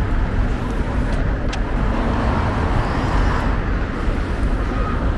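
Steady street traffic noise of passing cars, with a heavy low rumble.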